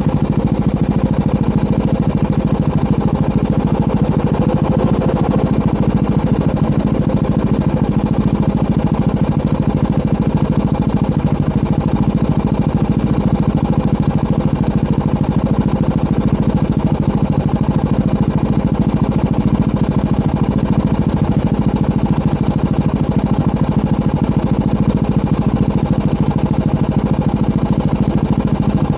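Motorcycle engine and exhaust running steadily at an even cruising speed, with no change in revs.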